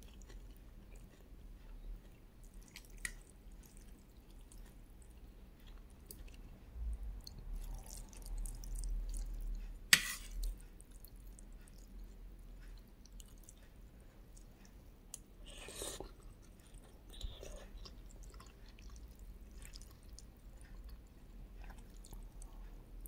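Close-up eating sounds: chewing and wet mouth noises with scattered small clicks. One sharp tap about ten seconds in is the loudest sound.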